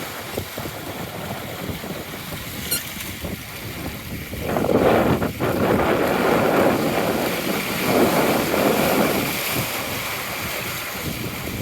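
Strong wind buffeting the microphone and water rushing past a sailboat's hull in a rough, choppy sea. Two louder surges of rushing water come about halfway through and a little later.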